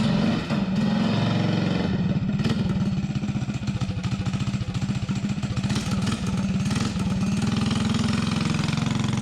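Tillotson 212 single-cylinder four-stroke engine on a mini bike running steadily on nitro RC fuel.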